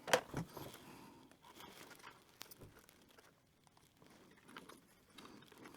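Faint clicks and rustling of fiddly hand work with tweezers on small plastic model-kit parts and a sticker sheet, with a sharper click just after the start.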